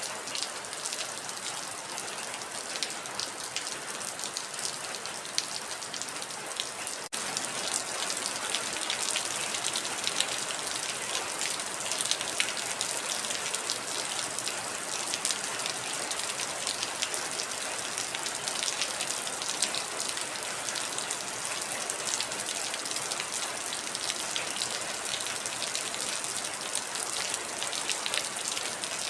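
Heavy rain falling steadily, a dense patter of drops. There is a momentary dropout about seven seconds in, after which the rain is slightly louder.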